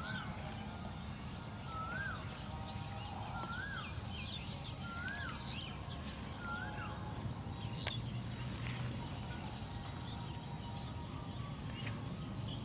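Birds calling: one bird repeats a short rising-and-falling whistle about every second and a half, five times over the first half, while other birds give higher chirps. A steady low rumble runs underneath.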